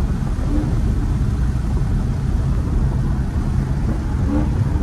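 Supercharged V8 engine of a Camaro ZL1 1LE running steadily under way, with road rumble, heard from inside the car.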